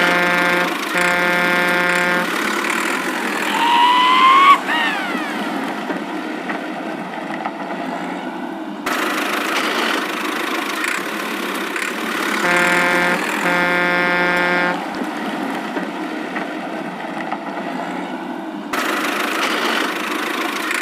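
Cartoon vehicle sound effects: an engine running steadily, with a double horn honk at the start and another double honk about twelve seconds in. Around four seconds in, a rising whistle-like tone swoops down sharply.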